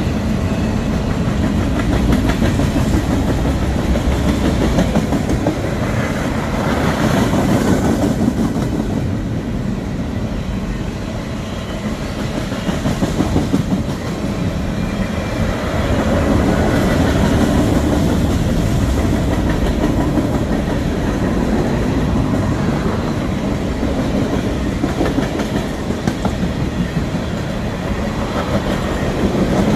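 Freight cars of a passing train rolling on the rails, covered hoppers and then tank cars: a steady rolling rumble with rapid wheel clicks.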